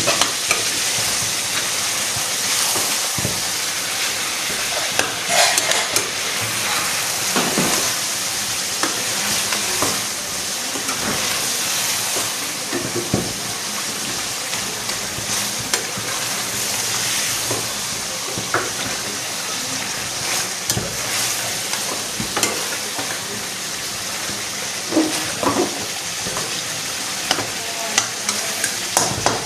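Chicken pieces with tomatoes and masala sizzling in hot ghee in a karahi, a steady frying hiss, while a spoon turns them over, with scattered scraping and clicks against the pot.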